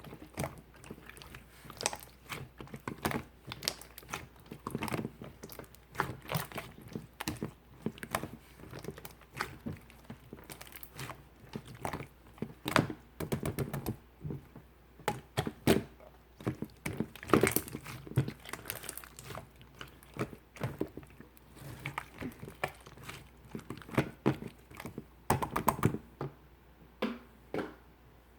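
Clear slime being squeezed, pressed and stretched by hand, making irregular sticky clicks and pops, several a second.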